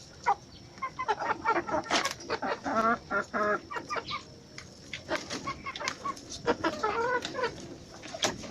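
Chickens clucking, short repeated calls, mixed with many sharp ticks and taps.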